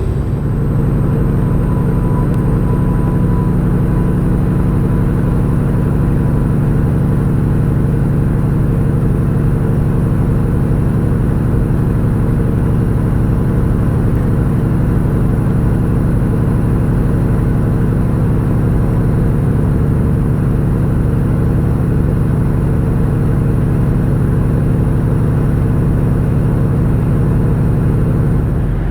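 Semi-truck's diesel engine and road noise heard from inside the cab while cruising at highway speed: a loud, steady low drone that holds even throughout.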